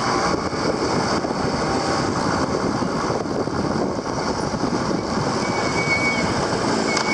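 Motorcycle engine running while riding, with dense steady road noise throughout. Two brief high-pitched tones sound in the second half.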